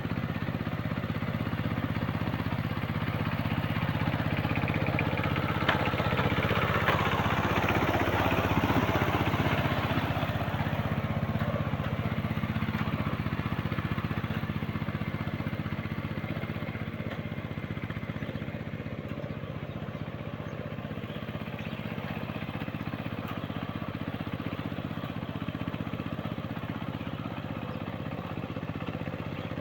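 Walking tractor (two-wheel power tiller) engine running steadily. It grows louder with a rougher, busier tone for several seconds near the start, then settles back to an even run.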